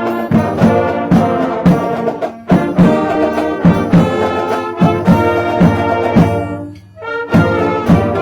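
High school marching band playing holiday music: brass chords over a steady beat, with a brief break about seven seconds in before the band comes back in.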